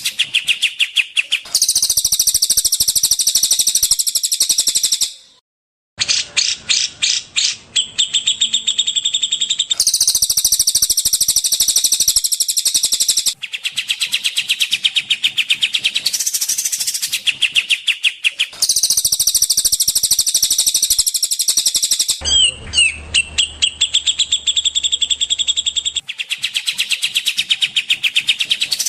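Songbird masteran recording: rapid, high-pitched chirps and trills repeated many times a second, in edited sections that cut off and switch abruptly every few seconds, with a brief silent gap about five seconds in.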